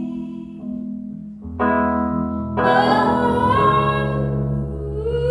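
Live band playing an instrumental passage between sung lines. Held chords change about a second and a half in and again near three seconds.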